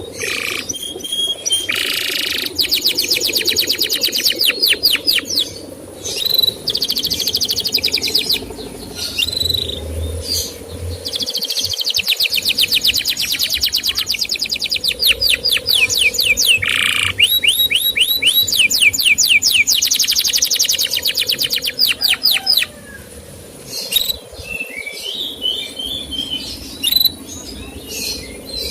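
Male canary singing in long, rapid trills of repeated high chirps, broken by short pauses.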